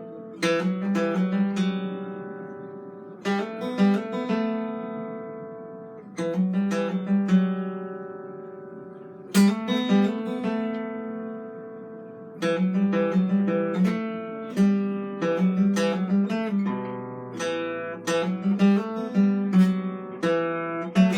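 Solo improvised music on a plucked string instrument. Chords are struck about every three seconds and left to ring out, and the playing grows busier about halfway through.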